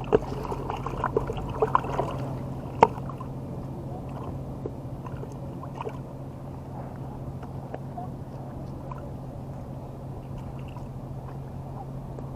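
Steady low mechanical hum with water sounds. Several sharp clicks and knocks fall in the first three seconds, the loudest nearly three seconds in.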